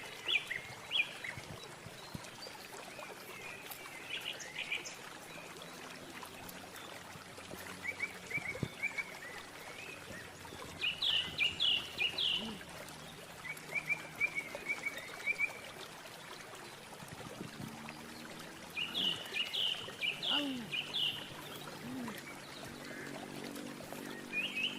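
Birds chirping in quick runs of four or five high notes, repeated every few seconds, over a steady background hiss.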